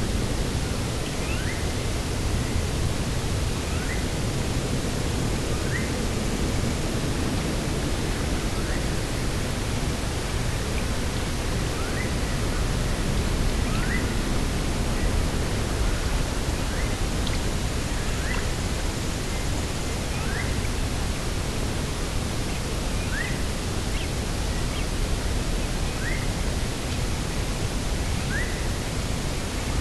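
Steady rushing of wind and sea, with a small bird's short rising chirp repeated faintly about every two seconds.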